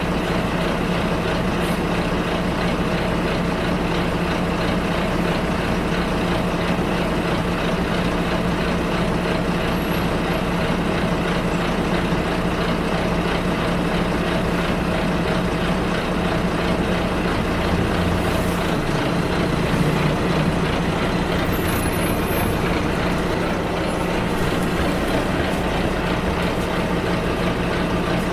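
Ride inside a moving bus: the engine drones steadily under road noise, and its note shifts about eighteen seconds in.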